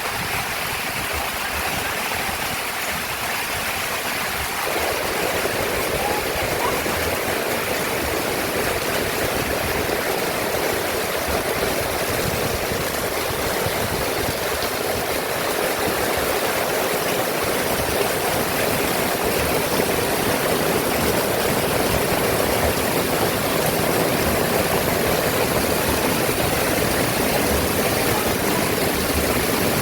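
Heavy rain pouring down in a steady, dense rush, growing a little fuller about five seconds in.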